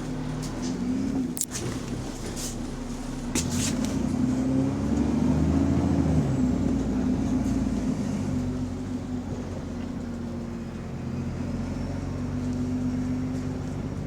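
Bus engine heard from on board, with an exhaust leak. It picks up speed about four seconds in, its note rising and growing louder, then settles to a steady run. Two sharp clicks come at about a second and a half and three and a half seconds in.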